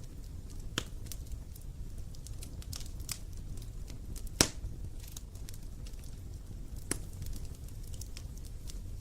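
Wood fire crackling, with scattered sharp pops over a low steady rumble; the loudest pop comes about four and a half seconds in.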